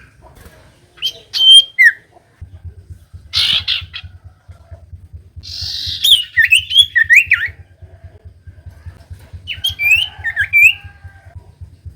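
Common iora (cipoh) calling in several bursts: clear whistled notes that glide down in pitch, mixed with a harsh chattering burst. A low buzzing hum runs underneath from a couple of seconds in.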